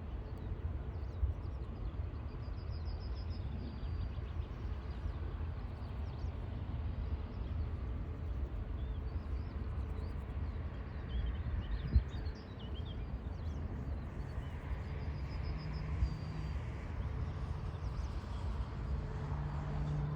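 Low, steady rumble of a distant jet airliner, the Airbus A350's Rolls-Royce Trent XWB engines, with wind buffeting the microphone and small birds chirping now and then. A sharp knock comes about twelve seconds in, and a low hum grows near the end.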